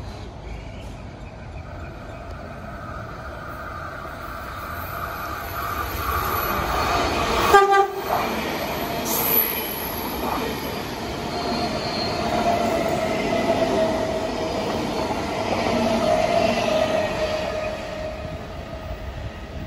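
V set double-deck electric intercity train passing through a station: a rumble of wheels and motors building as it approaches, a short sharp horn blast about seven and a half seconds in, then the cars running past with a steady whine that fades as the rear goes by near the end.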